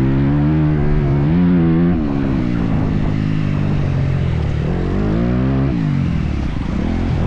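Motocross bike engine revving, its pitch climbing and dropping several times as the throttle is opened and closed.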